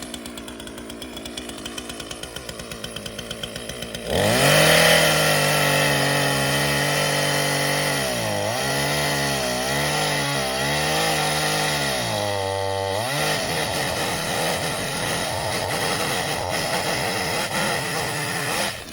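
35 cm McCulloch petrol chainsaw idling with a steady pulsing, then opened up to full throttle about four seconds in and cutting the felling notch into the base of a pine trunk, its pitch dipping several times as the chain works through the wood. It stops abruptly at the end.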